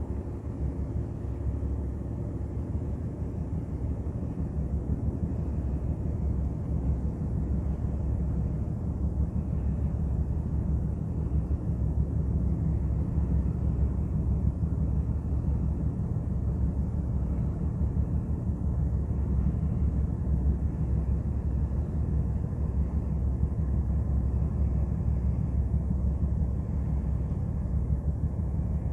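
Ship's engine running, a steady low rumble with a fast throb, growing a little louder over the first ten seconds or so.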